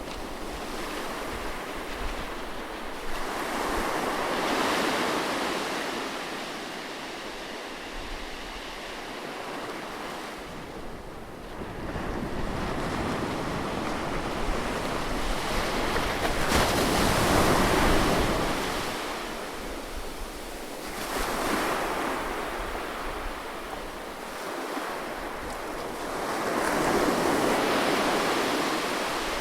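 Ocean waves breaking on a beach, surf rising and falling in a series of broad swells, the loudest a bit past halfway, with a steady wash of surf between them and some wind on the microphone.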